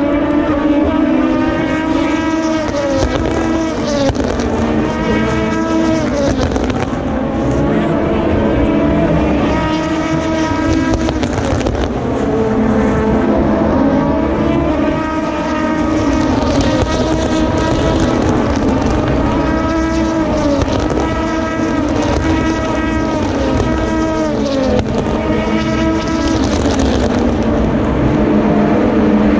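A steady stream of Le Mans endurance race cars passing through a corner, one after another with some overlapping. Their engines rise and fall in pitch as they shift, brake and accelerate away.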